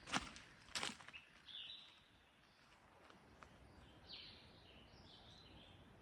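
Two crackly rustles in dry dead leaves, about two-thirds of a second apart, right at the start, followed by a few short, faint, high bird calls.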